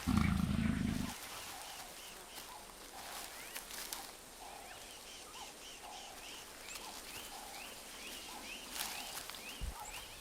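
A leopard growls, loud and low, for about a second at the start. After it, a bird repeats short rising chirps, about two a second.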